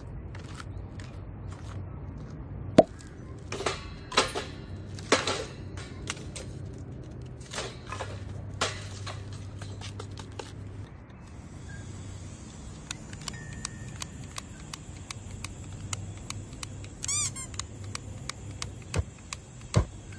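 Scattered clicks and knocks over a steady low hum, with a short squeak about 17 seconds in.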